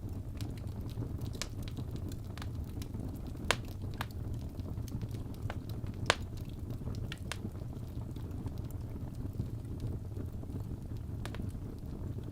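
Wood fire burning in a fireplace: a steady low rumble of the flames with scattered crackles and pops, two sharper pops about three and a half and six seconds in.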